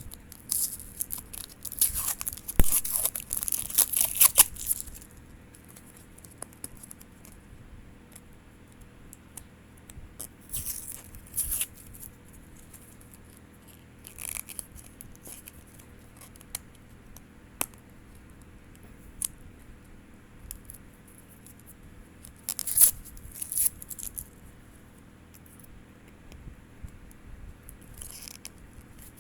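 Blind-box packaging being torn open and crinkled by hand. It comes in bursts: a long stretch of tearing and rustling in the first few seconds, then shorter rustles and a few sharp clicks later on.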